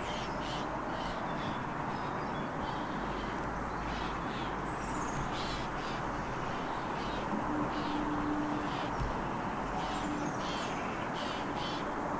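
Short, harsh bird calls repeated every second or so over a steady background rush of outdoor noise.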